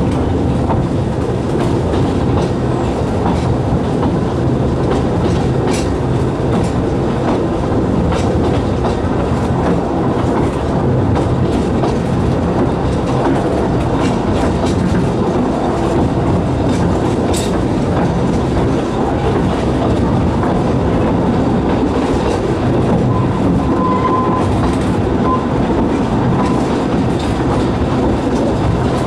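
Narrow-gauge railway carriage running along the line, heard from inside at the open side: a steady rumble of wheels on rail with occasional clicks over the rail joints.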